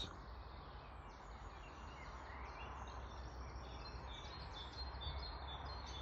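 Small birds chirping and singing, faint, over a steady outdoor background hiss and low hum.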